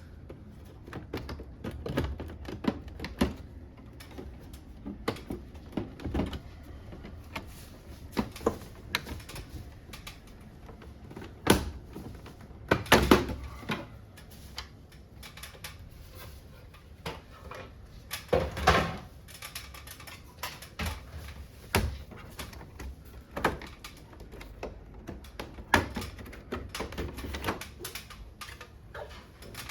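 Irregular clicks, taps and knocks of hard plastic parts and tools being handled as a wall-mounted air conditioner is taken apart, with a few louder knocks and rattles about a third and two thirds of the way through.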